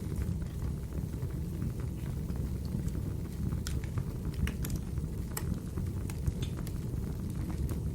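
Wood fire burning in a fireplace: a steady low rumble of the flames with scattered sharp crackles and pops from the burning logs at irregular moments.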